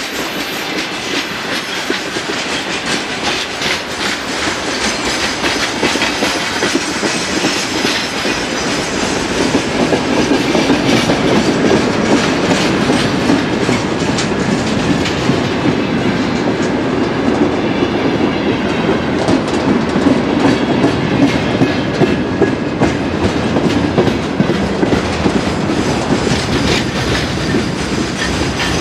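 Train rolling past on the rails, its wheels clattering steadily over the rail joints, getting louder about ten seconds in.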